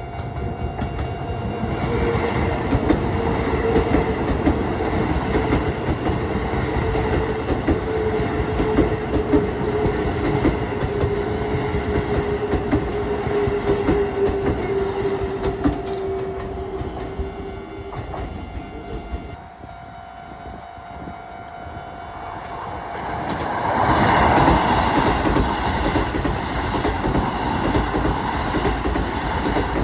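Keisei electric trains passing at a level crossing, wheels clattering over the rail joints. During the first passage a steady motor whine falls slowly in pitch. The sound eases off after about 18 seconds, then swells to its loudest around 24 seconds as another passage goes by.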